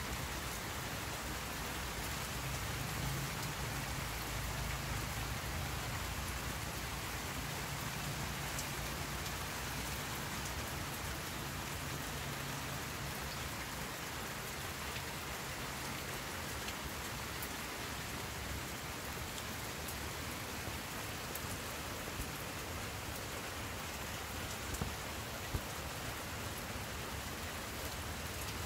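Steady rain: an even hiss with no breaks, a low hum under it that fades about halfway through, and a couple of light taps near the end.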